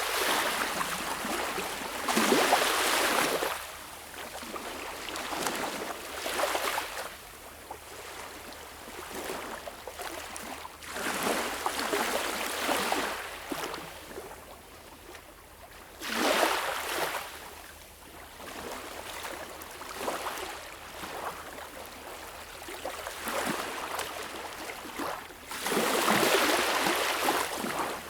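Small waves washing up on a beach, each swell rising in a rush of hiss and then draining back, every few seconds. The loudest waves come near the start, about midway, and near the end.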